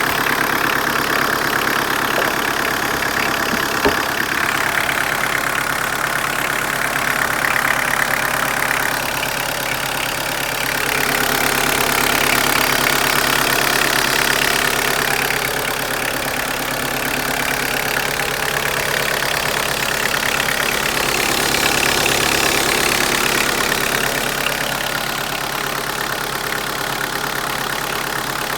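Opel Astra engine running at idle, a steady engine sound that grows a little louder twice, around eleven seconds in and again around twenty-one seconds in.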